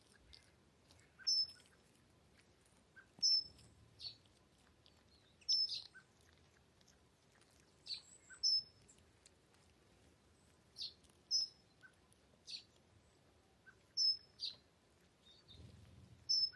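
A bird calling outdoors: short, high-pitched chirps repeated about a dozen times, one every second or two.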